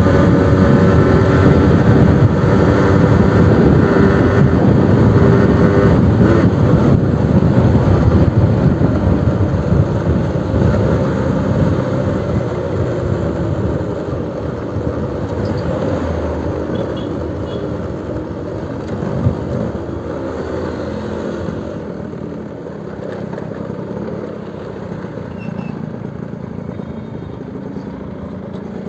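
Suzuki RC100 two-stroke motorcycle engine running through a new exhaust, growing gradually fainter over the stretch.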